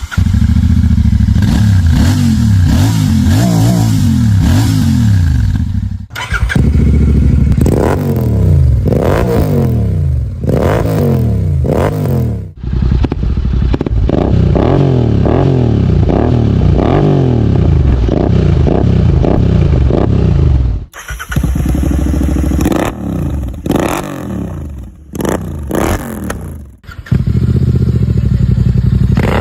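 Royal Enfield Continental GT 650's 648 cc parallel-twin engine being revved repeatedly through a series of different exhausts, in five clips joined by abrupt cuts. Each rev is a quick rise and fall in pitch.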